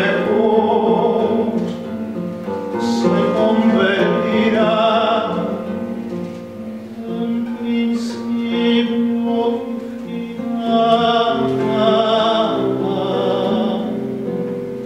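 A singer holding long notes with vibrato in a song, over a guitar accompaniment.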